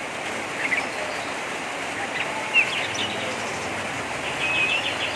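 Oriental magpie-robin (kacer) giving harsh chattering calls: short sharp notes, a quick rattling run of strokes near the end, over a steady hiss.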